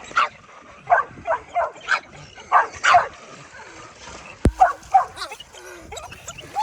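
Dog barking excitedly: about ten short, sharp barks and yips in quick runs, with a single sharp knock about four and a half seconds in.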